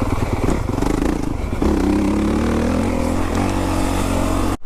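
Motocross bike engine running hard, its pitch rising and falling as the throttle is worked. It cuts off abruptly near the end.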